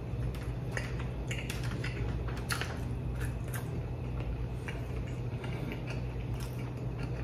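A person chewing a mouthful of karaage fried chicken close to the microphone, heard as irregular small clicks and crunches, over a steady low hum.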